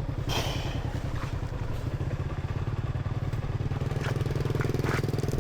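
Small motorcycle engine running steadily, growing louder and fuller from about four seconds in, with a short hiss near the start and a few sharp knocks near the end.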